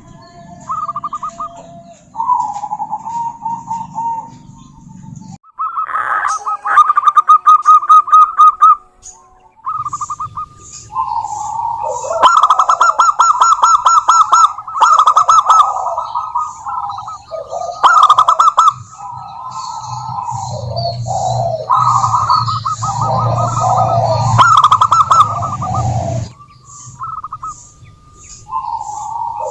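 Zebra doves (perkutut) calling: rapid trilled cooing phrases, one after another and partly overlapping, with short gaps between phrases.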